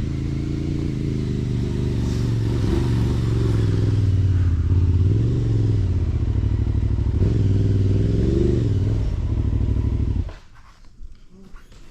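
Aprilia Tuareg 660 motorcycle's parallel-twin engine running under throttle, its pitch rising and falling several times, then cutting off abruptly about ten seconds in.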